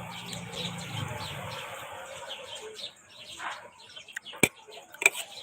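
Small birds chirping repeatedly in the background. A low hum runs through the first second and a half, and a few sharp clicks come near the end.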